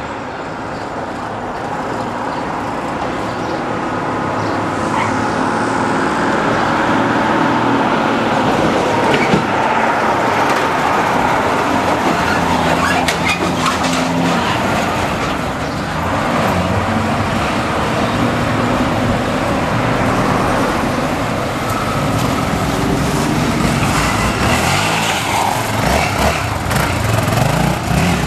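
Single-cylinder four-stroke trail motorcycle engine running hard and revving, its pitch rising and falling repeatedly; it grows louder over the first few seconds.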